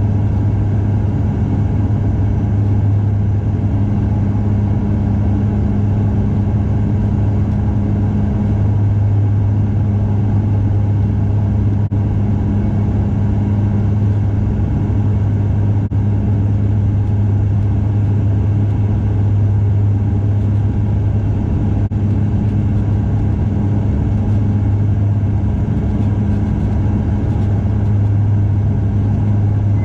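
Bombardier DHC-8 Q400 turboprop engines and propellers heard inside the passenger cabin: a loud, steady drone with a deep propeller hum.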